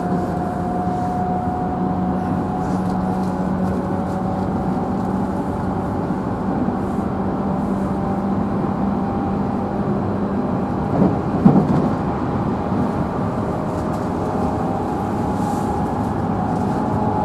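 JR Central 311 series electric train running at speed, heard from inside the motor car: steady running noise with the traction motors' whine holding a level pitch. A brief clatter comes about eleven seconds in.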